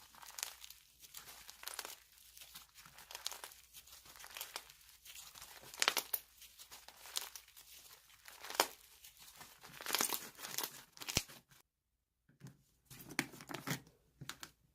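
Slime being squished, stretched and pressed by hand, giving off dense irregular crackling and crinkling. It cuts out for about half a second near the end, then starts again.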